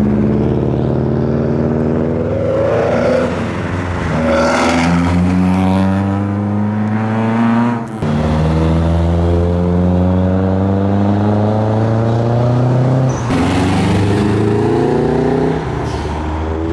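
A modified car's engine accelerating hard away, its note rising in pitch through several pulls, with short breaks at gear changes about 3, 8 and 13 seconds in.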